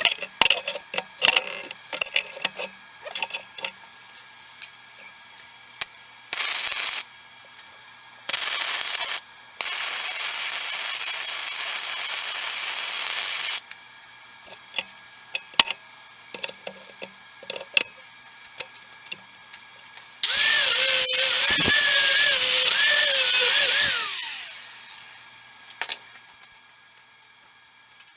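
Electric arc welding on the cracked steel hitch of a mini excavator: a steady hiss that starts and stops sharply, in two short bursts and then a run of about four seconds. Later a power tool, likely an angle grinder, runs loud for about four seconds with a wavering whine and then winds down, with light metal clicks and taps in between.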